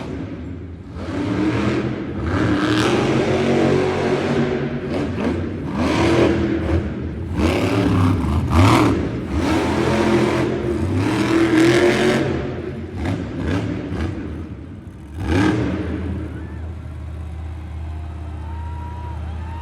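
Monster truck's supercharged V8 revving hard in repeated surges, then settling to a steady low idle about three-quarters of the way through.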